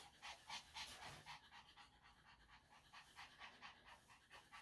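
Yorkshire Terrier panting faintly, in quick short breaths.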